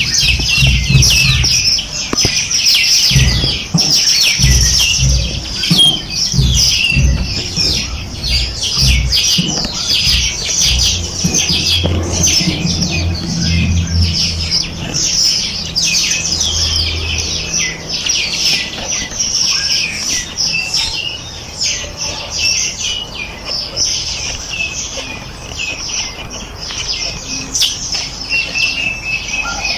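A dense chorus of many small birds chirping and twittering together, with short, rapid, overlapping calls. Through the first half or more there are also low thuds and rumbling under the calls.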